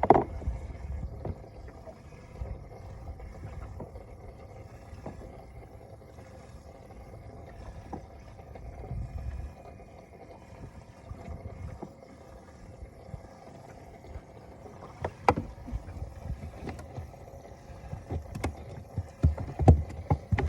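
Low steady rumble with scattered knocks and clicks of handling, which come thicker and louder in the last few seconds.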